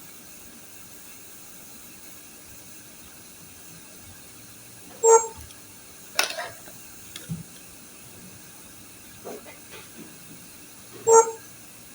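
A short electronic beep with a clear pitch, repeating about every six seconds (twice here), over a steady hiss, with a few faint clicks and knocks in between.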